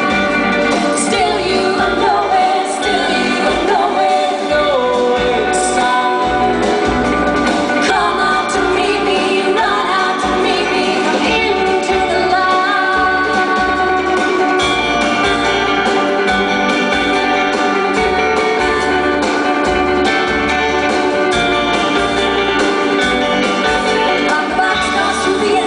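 Live rock band playing a song, with a woman singing the lead vocal over the full band.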